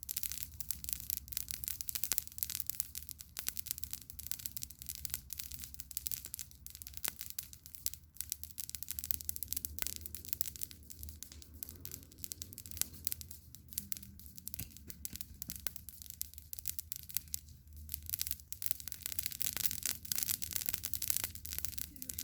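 Campfire crackling: a dense, continuous run of small pops and snaps over a steady hiss, with a low rumble underneath.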